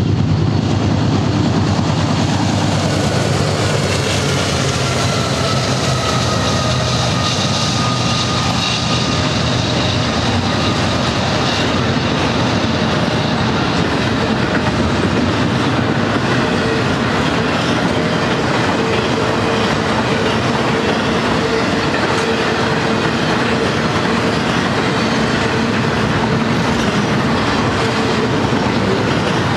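BNSF GE diesel locomotives of a double-stack intermodal freight train passing close by, their engines strongest in the first several seconds. Then the steady rumble and clickety-clack of the loaded well cars rolling past, with a thin steady squeal in the second half.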